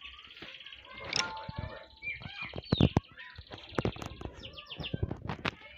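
Small songbirds chirping and whistling in short, rapid calls, with sharp clicks scattered among them.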